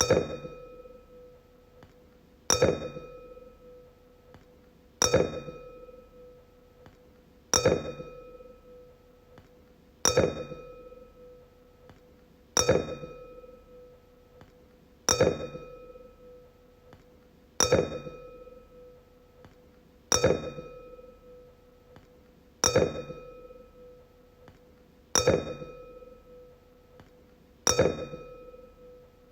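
A wine glass struck over and over, ringing out. There are twelve evenly spaced strikes about two and a half seconds apart, each a clear bell-like tone that dies away over a second or so.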